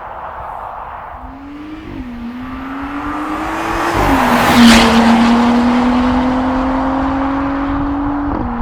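Porsche Cayenne's EA839 turbocharged V6 through a Stone turbo-back exhaust, accelerating hard. The exhaust note climbs in pitch and drops at gear changes about two and four seconds in. It is loudest just after the second change, then climbs slowly again until the throttle comes off near the end.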